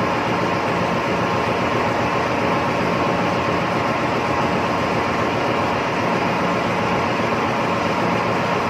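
Loud, steady drone of shipboard machinery with a constant hum, the ambient noise of a ship's machinery space around an exhaust gas scrubber.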